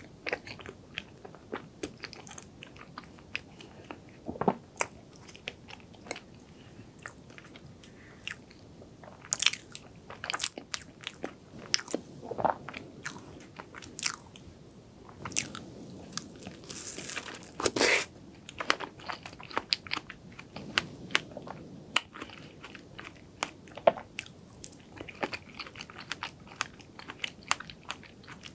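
Close-miked eating of soft chocolate layer cake with cream: chewing with many short, sharp mouth clicks. Partway through, a fresh strawberry is bitten and chewed.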